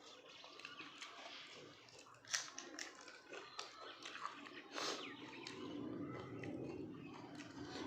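Close-up chewing and mouth sounds of someone eating meat and dhindo, with a few sharp smacks and clicks, the loudest about two and a half and five seconds in.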